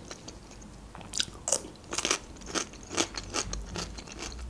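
Close-miked crunchy chewing of raw cucumber: a string of crisp crunches, about two a second, from about a second in.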